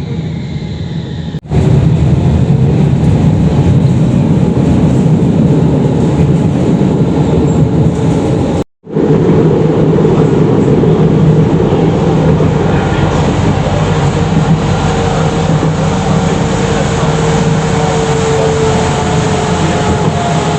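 Tram running, heard from inside: a steady loud rumble of the ride with a faint motor whine. It is broken by two abrupt cuts, about a second and a half in and about nine seconds in.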